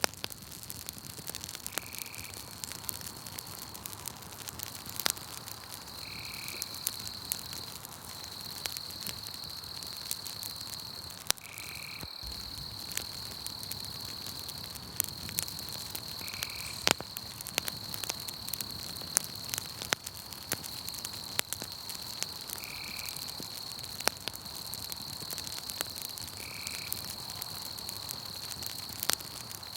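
Campfire crackling with frequent sharp pops, over a continuous high-pitched trill of night insects that drops out briefly now and then. A short lower chirp repeats about every four to six seconds.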